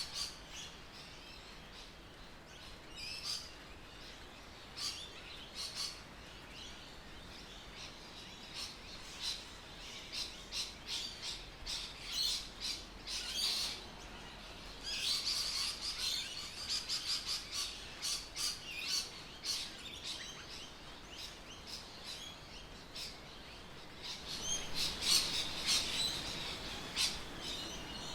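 Birds calling: many short, high chirps over a faint steady background, thickest around the middle and again near the end.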